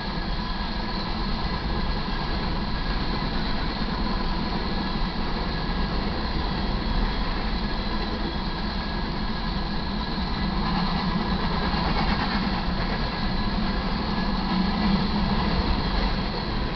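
Freight train of covered hopper grain cars rolling past: a steady rumble and clatter of steel wheels on rail, with a few faint steady high tones over it, growing a little louder in the last few seconds.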